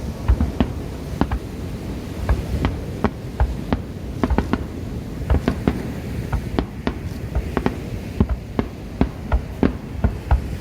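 Fireworks going off in a rapid, irregular series of sharp bangs, two or three a second, over a continuous low rumble from the barrage.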